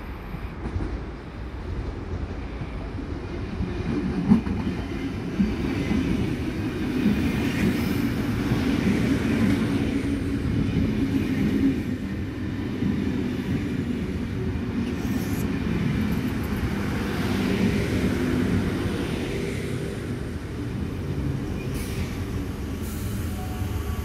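Sydney Trains K-set double-deck electric train coming up and running past close by, its wheels rumbling on the rails. The sound swells about four seconds in, with a few sharp clicks over the rail joints, and stays steady as the carriages go by.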